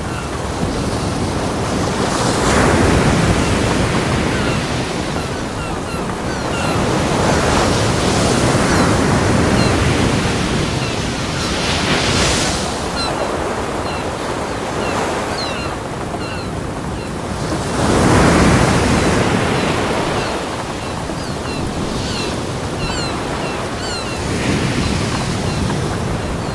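Ocean surf breaking on a beach: a continuous wash of water that swells as each wave breaks, every five or six seconds or so, the loudest break a little past halfway through.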